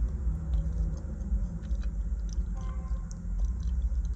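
Steady low rumble of a car's cabin with the engine running, with scattered light clicks and rustles from handling a takeaway food container and cutlery.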